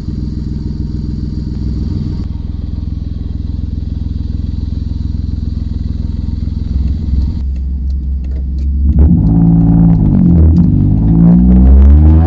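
Toyota Aygo exhaust idling steadily, its tone changing abruptly twice in the first half as clips change. From about nine seconds in, the engine is revved several times, the pitch rising and falling, louder than the idle.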